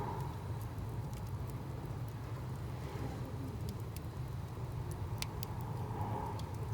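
Firewood burning, crackling with scattered sharp pops, one louder snap about five seconds in, over a steady low rumble.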